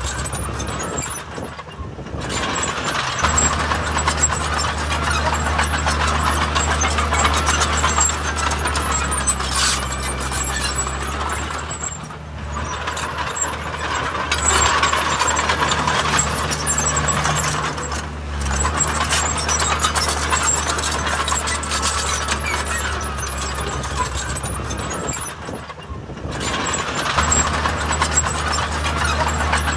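Heavy diesel earthmoving machinery working. The engines run steadily under load and ease off briefly four times, about every six to ten seconds.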